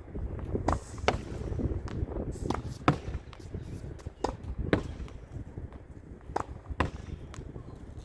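Tennis ball rallied against a practice wall with a racket, using a regular-weight, low-compression ball. Sharp knocks come in pairs about half a second apart, racket strike and ball on the wall, repeating every second and a half to two seconds. A low rumbling noise runs underneath.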